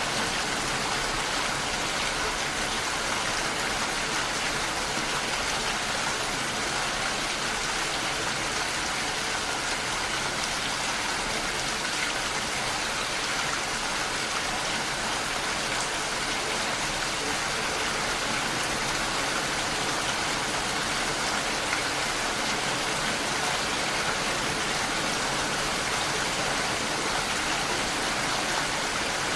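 Steady rain falling, an even hiss with the patter of drops on a surface.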